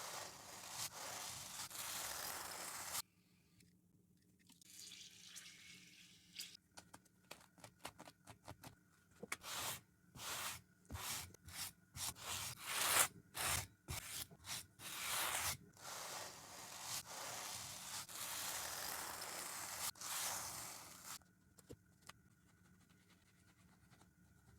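Brush scrubbing a dirty shoe, with no talking. It starts as a continuous scrubbing hiss, goes quieter, then turns into many separate short brush strokes. A second continuous stretch of scrubbing follows before it falls quiet near the end.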